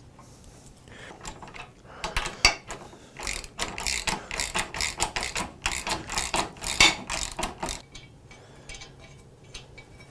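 Rapid metallic ratcheting and clattering for about six seconds, starting about two seconds in, with a few faint clicks afterwards.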